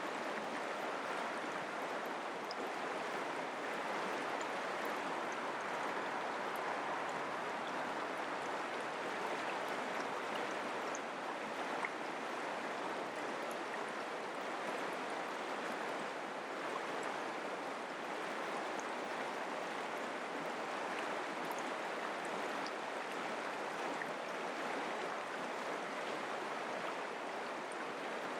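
Mountain creek water running, a steady, even rush.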